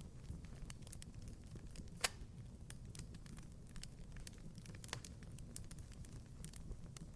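Wood fire crackling in a fireplace: scattered sharp snaps over a steady low rumble, with one louder pop about two seconds in.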